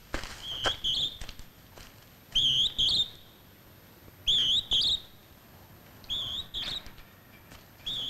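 A small bird singing: a short, wavering, whistled phrase of two or three notes, repeated about every two seconds.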